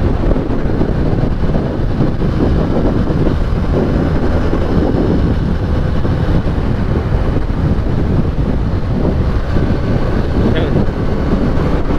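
Benelli 302S 300cc parallel-twin motorcycle engine running steadily while being ridden, with wind buffeting on the microphone.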